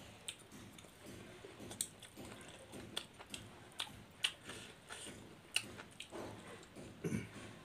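Chewing and wet mouth smacks from two people eating rice and fish curry by hand, with irregular sharp smacking clicks and a short low mumble near the end.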